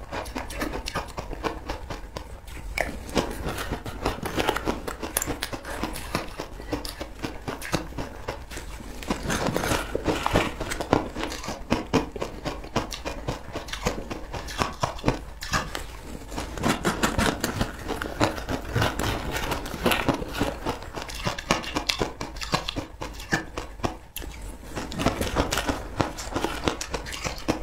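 Close-up crunchy chewing and biting of a crumbly purple frozen or powdery substance, with crackling clicks throughout. A metal spoon scrapes and digs in a plastic bowl between mouthfuls.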